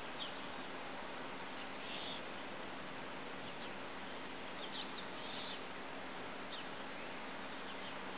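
Steady background hiss with a few faint, brief high bird chirps scattered through it.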